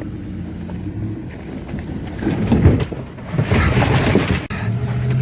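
Car engine under throttle as the car drives over a fallen tree, with two loud surges of crashing and scraping of branches against the car about two seconds in and again about a second later, then a sharp knock before the engine settles into a steady run.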